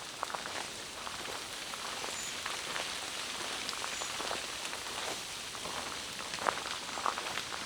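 Steady rain falling through forest trees, an even hiss with scattered close drops ticking, one louder drop-hit about six and a half seconds in.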